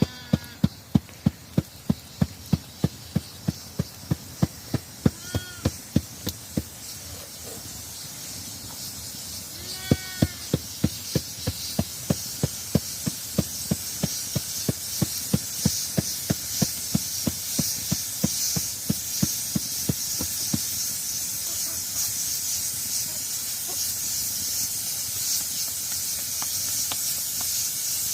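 A knife chops steadily on a cutting board at about three strokes a second, pauses briefly partway through, and stops well before the end. A few short sheep bleats come in between. A steady high hiss builds through the second half.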